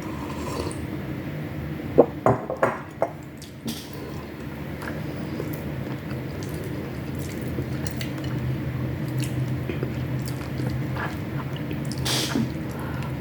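Close-up eating sounds: cutlery clinks sharply against a plate four times about two seconds in, then small mouth and utensil clicks, all over a steady low hum.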